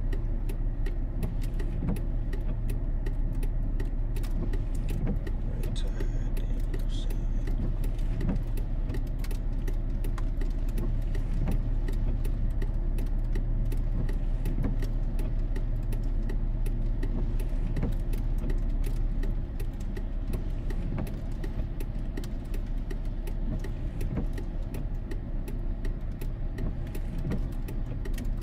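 Inside the cab of a 2001 GMC Sierra pickup driving in the rain: a steady low road and engine rumble, with many small scattered clicks of raindrops. The rumble eases slightly about two-thirds of the way through.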